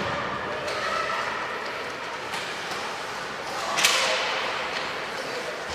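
Youth ice hockey play in an arena: steady skate and stick noise with a few light clicks, and one sharp crack that rings out about four seconds in.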